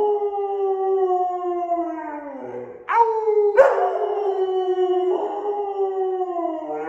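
A German shepherd–Siberian husky cross howling in long, drawn-out howls that slide slowly down in pitch. One howl fades out about two and a half seconds in, and a new one starts about three seconds in and runs until near the end.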